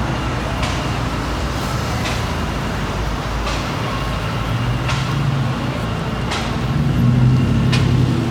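Road traffic: a heavy vehicle engine running close by, with a steady low rumble that grows louder about seven seconds in. Faint regular ticks come about every second and a half.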